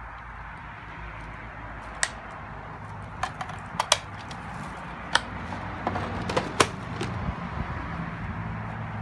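A series of sharp clicks and knocks, about eight of them spread between about two and seven seconds in, over a steady hum that slowly grows louder.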